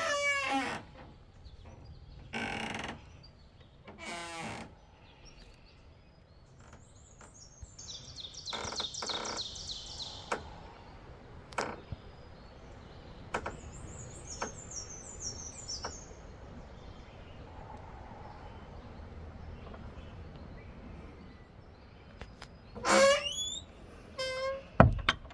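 Wild birds singing: two runs of rapid, high, trilled notes, the first about eight seconds in and the second about five seconds later, over a low outdoor background with a few scattered light knocks.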